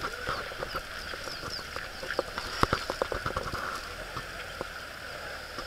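Small birds chirping faintly over a steady high background hum, with a run of sharp clicks and taps from about two to three and a half seconds in.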